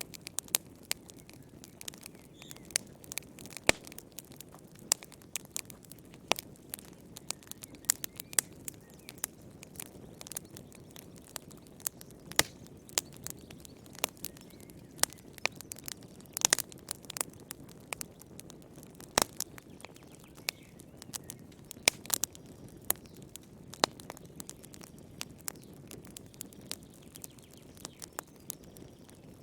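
Wood fire burning in a fireplace: sharp, irregular crackles and pops of burning firewood over a soft low rumble of flame, with a quick flurry of pops about halfway through.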